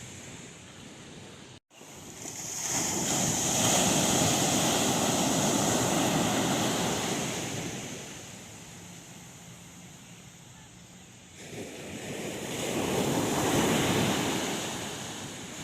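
Sea surf: two big waves break and wash up the beach one after the other, each swelling up and then fading away, with wind buffeting the microphone. The sound drops out for an instant about two seconds in.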